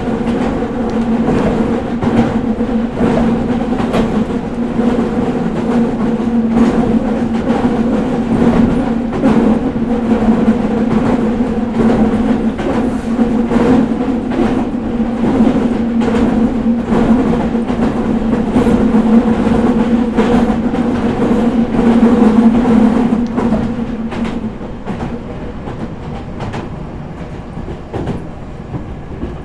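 Interior running sound of a Meitetsu 4000 series electric train on the move: steady wheel-on-rail rumble with a low hum and a higher tone above it, and clicks from rail joints. About 24 seconds in, the hum fades and the running sound grows quieter.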